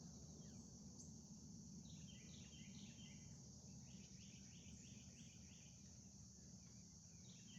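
Faint birdsong: two short phrases of quick repeated chirps, over a steady high-pitched insect drone.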